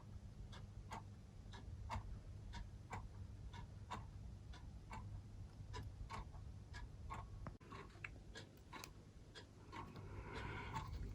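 Faint, steady ticking at an even pace of about two to three ticks a second, over a low hum. A short rustle comes near the end.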